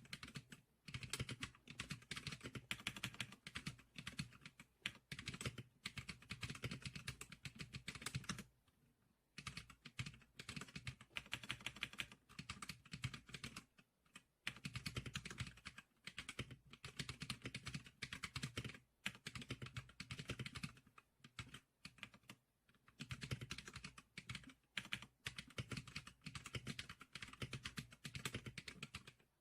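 Fast typing on the 지클릭커 SPK100 keyboard: long runs of rapid key clicks, broken by short pauses a few times.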